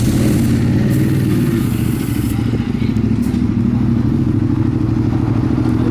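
Ducati 848 race bike's L-twin engine idling steadily at a constant pitch, warming up before a practice session.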